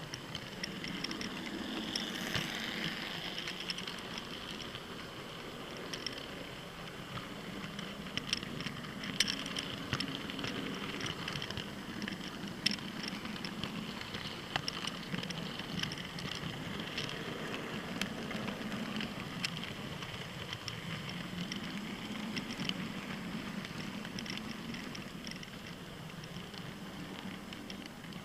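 Model trains running on the layout track: a steady rattle and hum from the wheels and motors, with scattered sharp clicks.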